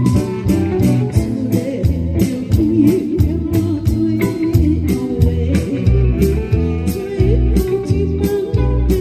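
A band playing a song: guitar over bass notes and a regular drum beat, with a singing voice.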